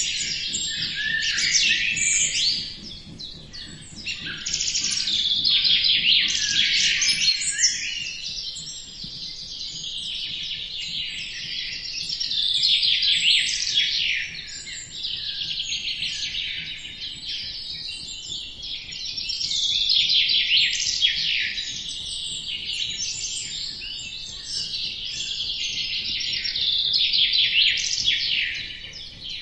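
Many small birds chirping together in a dense chorus of quick, high chirps, swelling and easing every few seconds.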